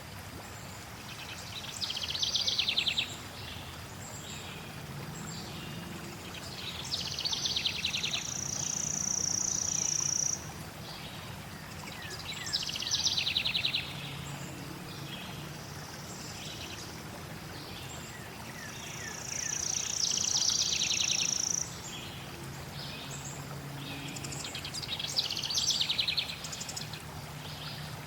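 Songbirds singing over a steady rush of flowing water. The birds sing five bouts of song, each a quick, rapid trill, and two of them carry a long, steady high note.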